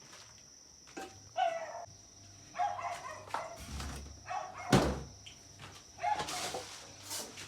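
Handling sounds of an appliance and its packaging: a series of knocks, scrapes and rustles, with one sharp thump a little past the middle.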